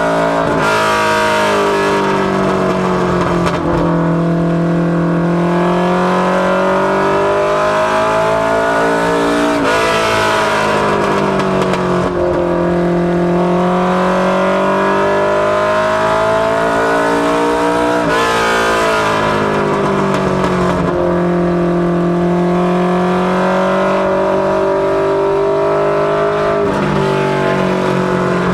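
Mustang LX notchback ministock race car's engine running hard through practice laps on a short oval. The revs climb along each straight and drop back going into each turn, a rise-and-fall cycle repeating about every eight to nine seconds.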